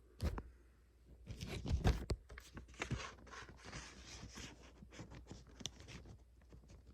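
Handling noise from a plastic DVD case being opened and the disc handled: a sharp click just after the start, a cluster of knocks and rustling about one and a half to two seconds in, then many small clicks and scrapes.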